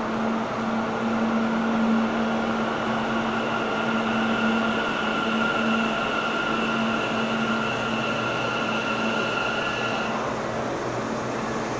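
Steady machine hum of a train standing at an underground station platform, with a steady high-pitched whine that cuts off about ten seconds in.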